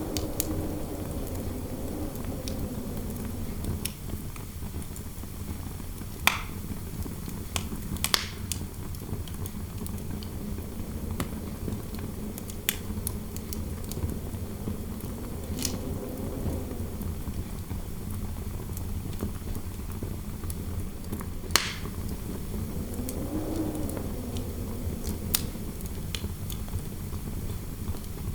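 Fireplace fire crackling, with sharp pops every few seconds, over a low steady rumble of interior wind. The wind's faint howl rises and falls a few times.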